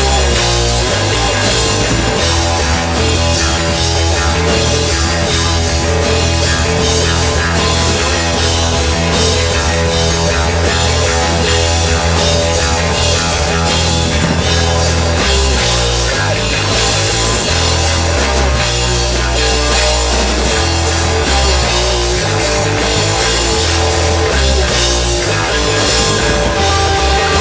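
Live rock music: a band playing with electric guitars, bass and drum kit, loud and steady.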